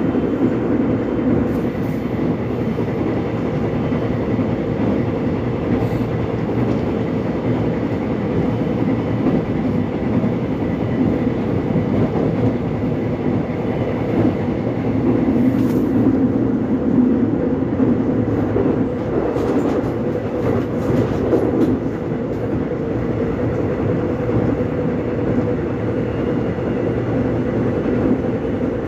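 Korean subway train running, heard from inside the car: a steady low rumble of wheels on track with a faint steady whine and occasional light clacks, swelling a little about halfway through.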